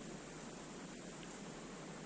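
Faint, steady background hiss with no clear bird calls.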